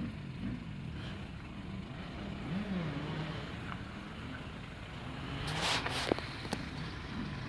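Toyota Hilux engine pulling at low speed over a rutted dirt track, its pitch rising and falling with the throttle. About five and a half seconds in comes a brief rush of noise, followed by a couple of sharp knocks.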